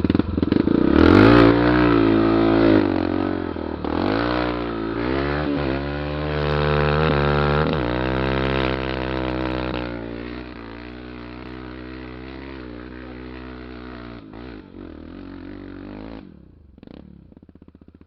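Honda XR 250 Tornado trail bike's single-cylinder four-stroke engine revving up and down several times, then running at a steadier, lower pitch before dying down near the end.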